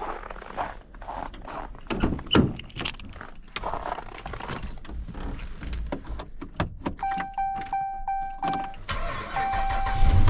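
Keys jangling and clicks and rattles of handling inside a vehicle, then a dashboard warning chime beeping rapidly about seven seconds in, followed by longer beeps. The engine starts near the end and settles into a steady low hum.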